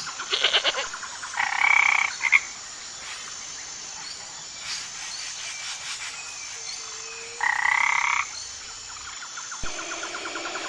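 Frog calls: a quick rattling trill, then a loud croak lasting about a second, and a second croak some six seconds later.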